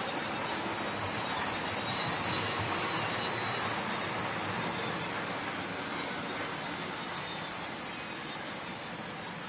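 OO gauge model train running on the track: a steady rushing of motor and wheels. It grows louder to about two or three seconds in, then slowly fades as the train moves away.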